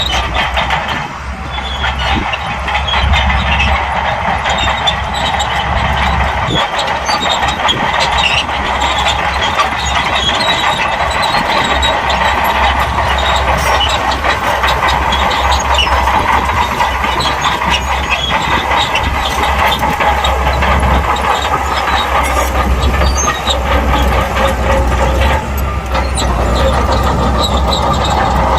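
Crawler bulldozer working, its diesel engine running steadily under dense clanking and rattling from the steel tracks.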